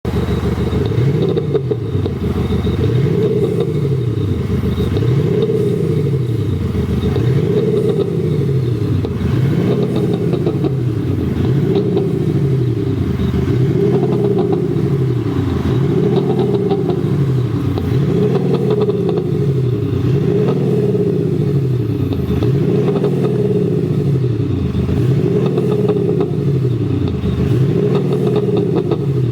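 Mercedes-Benz CLS 300d diesel with an active sound exhaust system playing a synthesized AMG-style multi-cylinder engine sound, revving up and down in a regular cycle about every two seconds.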